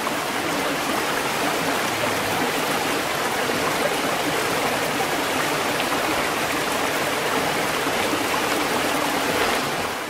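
Xiaomi robot vacuum cleaner running as it drives across a tiled floor: a steady, even whooshing hiss from its suction fan and brushes, dying away near the end.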